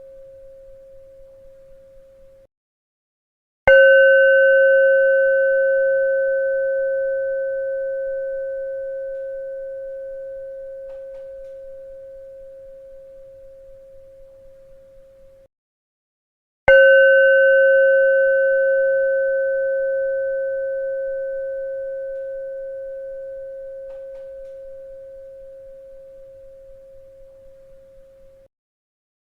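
A bell struck twice, about thirteen seconds apart. Each strike rings a clear, steady tone that fades slowly. The dying ring of an earlier strike cuts off suddenly shortly before the first.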